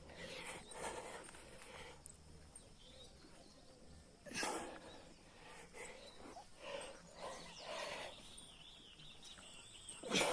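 Outdoor animal sounds: short calls every second or so, with two louder sharp calls, about four seconds in and at the very end. A bird sings a wavering chirping song near the end.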